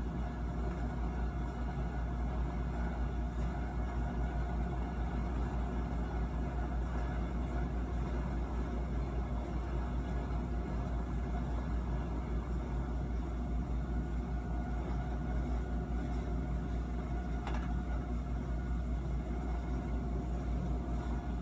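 Steady rumble of a train running along the track, from a cab-ride video played back through a screen's speakers, with a faint steady tone above it.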